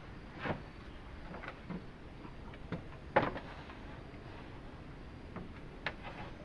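A few scattered sharp knocks and clicks over a steady low hiss, the loudest about three seconds in.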